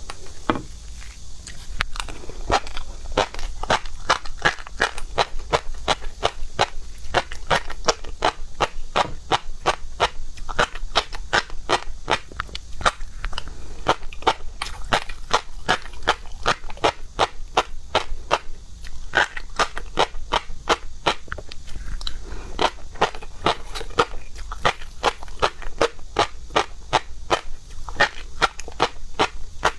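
Close-miked chewing and crunching of seafood, a dense run of sharp, wet clicks, several each second.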